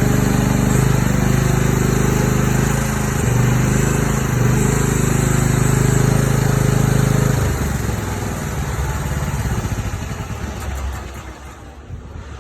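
Mini excavator engine running steadily at working speed, its pitch dipping briefly a few times, then dropping back to a lower, quieter idle about seven and a half seconds in.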